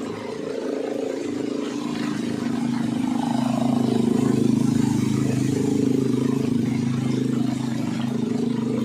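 Motorcycle engine running at a steady pitch, growing louder about three seconds in.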